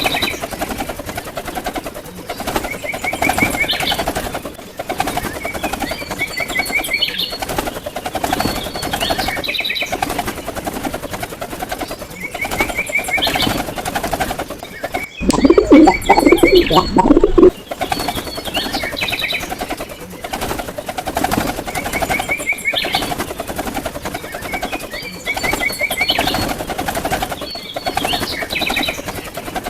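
House sparrows chirping in repeated quick series of short notes. About halfway through, a louder, lower-pitched sound breaks in for about two seconds and then stops abruptly.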